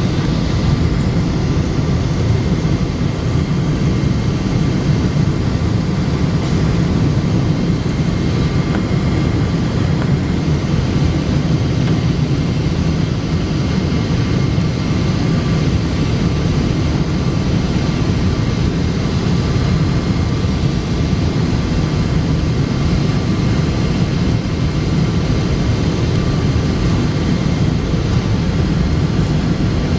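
Steady low roar of a Boeing 777-200 in flight, its engine and airflow noise heard from inside the passenger cabin, with a faint steady high whine over it.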